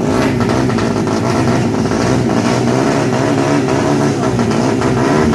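Tuned 200cc underbone drag-bike engines revving, more than one engine at once, their pitch rising and falling.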